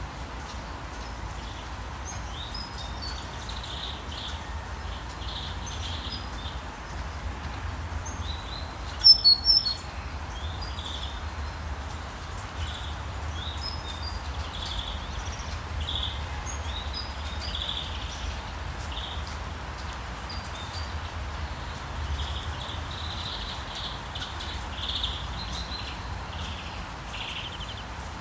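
Rainforest ambience: many short bird chirps repeating throughout over a low rumble. About nine seconds in, a sudden loud burst of three or four sharp, high calls.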